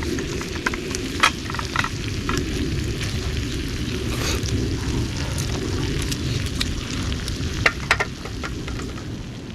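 Wood campfire crackling, with sharp pops a little after a second in and twice near the end, over a steady low rumble.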